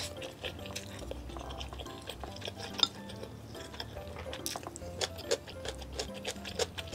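Close-miked wet chewing and mouth sounds of eating braised mackerel and radish, with scattered sharp clicks of utensils against dishes, one louder near the middle.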